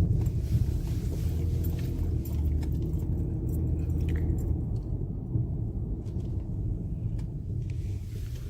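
Steady low rumble of a car heard from inside the cabin while driving: engine and road noise, with a few faint clicks.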